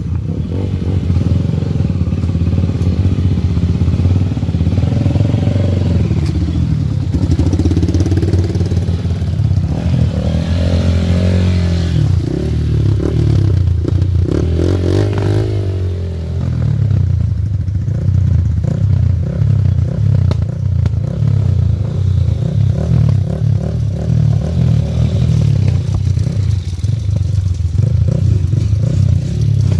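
Off-road dirt bike engines running, their pitch rising and falling as they rev between about six and sixteen seconds in, then settling back to a steady drone.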